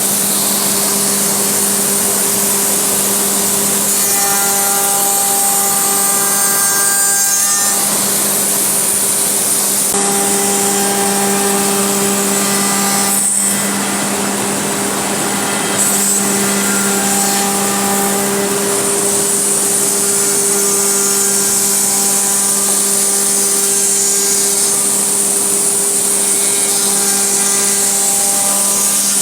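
ATC CNC router cutting a wooden door panel: a steady high spindle whine and low hum over the noise of the bit in the wood, with shorter tones coming and going as the machine moves. It is briefly quieter about halfway through.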